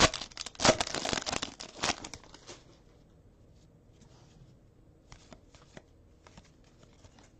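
Trading card pack wrapper crinkling and tearing, loud for about the first two seconds, then a few faint clicks of cards being handled.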